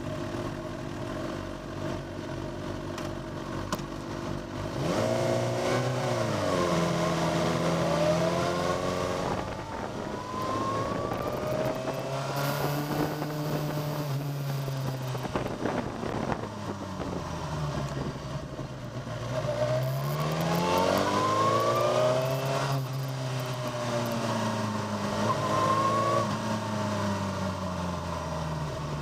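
Onboard recording of a track-day motorcycle engine pulling up through the revs and easing off several times, its pitch rising and falling in long sweeps, with wind noise over it.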